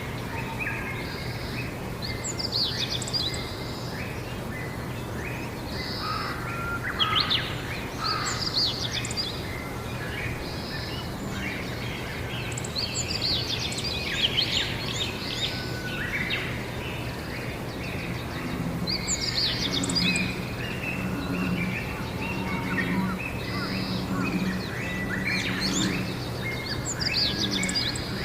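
Several wild songbirds singing and chirping at once, their short varied phrases overlapping throughout, over a steady low background hum. A low, evenly repeated pulsing joins in the latter half.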